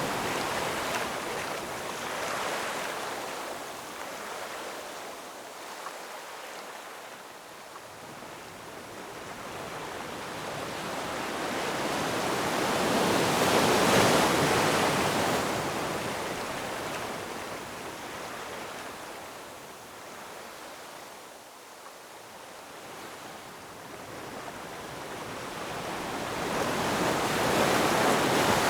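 Ocean surf washing in and out: a rushing noise that slowly swells and fades, with waves peaking about halfway through and again near the end.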